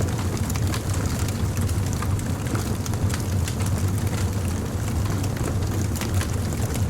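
Wood fire crackling: frequent small, sharp, irregular pops and snaps over a steady low rumble of the flames.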